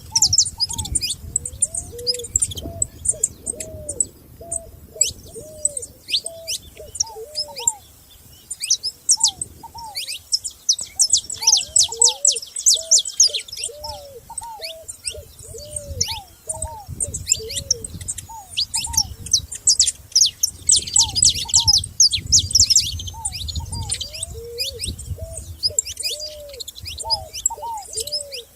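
Several wild songbirds chirping and singing in quick, high notes and trills, over a lower call of short cooing notes that keeps repeating.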